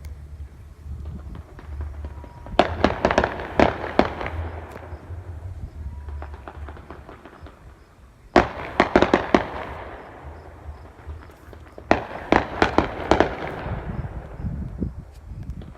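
Fireworks going off in three bursts of rapid, crackling cracks, starting about two and a half, eight and a half, and twelve seconds in, each lasting a second or two. A low rumble sits under the first half.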